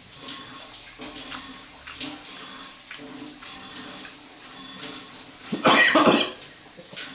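Close-miked chewing and wet mouth sounds of a person eating, with small smacks and clicks throughout. About five and a half seconds in comes a much louder, rough burst lasting about half a second, like a cough.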